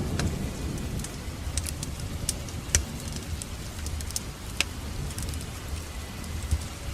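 Fire in a fireplace crackling, with scattered sharp pops over a steady low rumble; the loudest pop comes a little under three seconds in.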